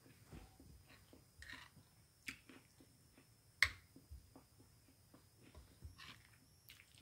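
Quiet close-up chewing and wet mouth sounds of someone eating creamy beef stroganoff by hand, with scattered small clicks and one sharper click about three and a half seconds in.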